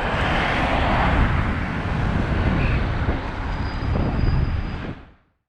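Rushing, rumbling wind and road noise on the microphone of a camera riding along on a moving bicycle, fading out about five seconds in.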